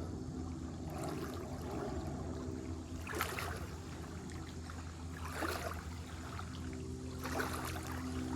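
Water splashing and sloshing in short bursts about every two seconds, over a steady low hum.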